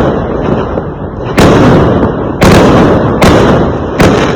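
Fireworks going off: four loud bangs about a second apart, the first about a second and a half in, each dying away in a long rumbling echo.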